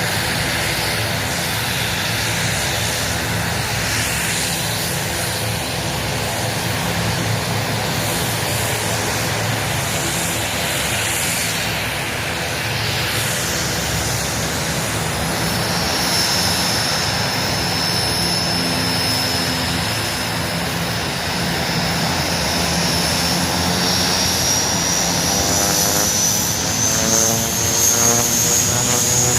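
Aircraft engines running steadily. A high whine comes in about halfway through and rises slowly toward the end.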